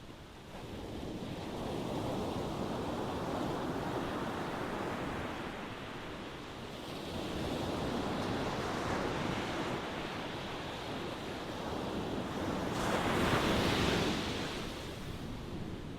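Ocean waves breaking and washing in successive swells, with a rush of surf that rises and falls; the loudest and brightest wave crashes about three-quarters of the way through.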